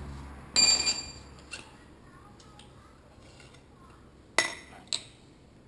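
Metal tools and fork parts clinking together: a loud ringing metallic clank about half a second in, then two sharp metal knocks near the end.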